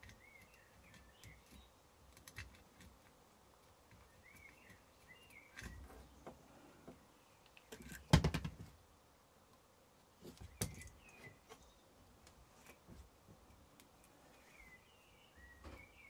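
A bird singing in the background, a short chirping phrase repeated every few seconds over faint room noise. A sharp knock about halfway through, with a smaller one a couple of seconds later, comes as things are set down on the workbench.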